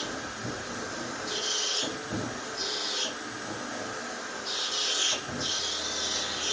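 Power drill running with its bit grinding into the workpiece in several pushes of about a second each. The bit is one the driller thinks has gone dull.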